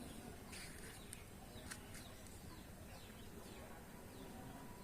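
Faint outdoor ambience with small birds giving short, quick, downward-sliding chirps over a low background hum.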